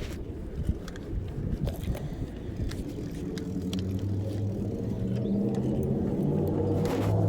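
Motorcycle engine running while riding, with rumble at first. About three seconds in, a steady engine note comes up and grows gradually louder.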